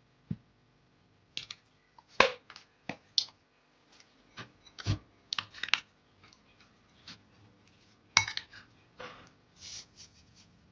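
Irregular clicks, taps and knocks of small household objects being handled and set down, with a few short scraping sounds near the end.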